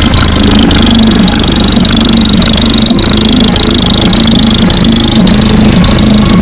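Competition car-audio system with a wall of subwoofers playing bass at extreme volume: a steady deep drone with a shifting note above it, loud enough to distort the recording.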